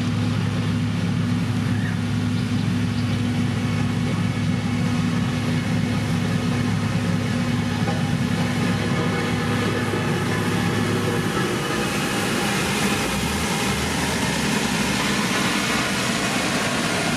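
Heavy road-construction machine's engine running steadily under a constant mechanical noise; its steady low hum changes about eleven seconds in.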